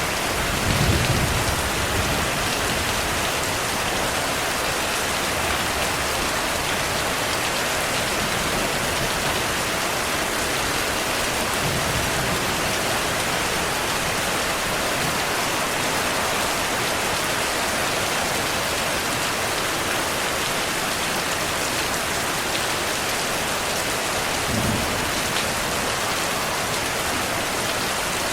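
Heavy rain falling steadily, with soft low thunder rumbles about a second in, around the middle, and again near the end.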